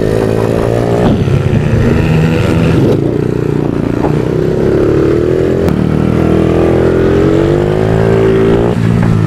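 Motard motorcycle engine heard on board at full race pace. Its pitch climbs steadily, then drops sharply about a second in, around the middle and near the end, as the rider accelerates, shifts and brakes through the corners.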